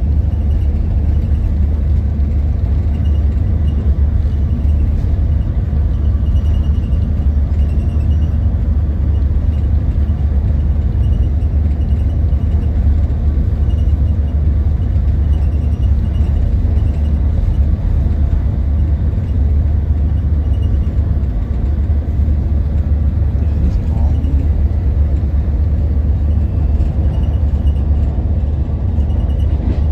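Steady low rumble of a moving Amtrak Capitol Corridor passenger train, heard inside the upper level of a bilevel car.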